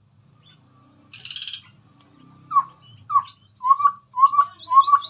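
Chestnut-rumped babbler singing: a harsh chatter about a second in, then a run of five loud, low hooting notes that start about halfway through and grow louder, with faint high chips between them.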